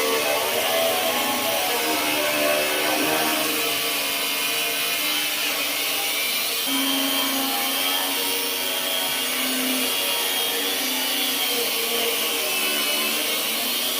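Angle grinder running steadily, its hum wavering slightly in pitch over a bright hiss.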